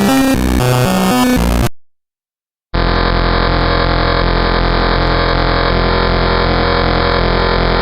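Harsh computer-generated synthesizer noise-music from a joke malware program: a stepping pattern of low electronic tones cuts off under two seconds in, leaving about a second of silence, then a dense, steady buzzing drone of many layered tones starts abruptly and runs on.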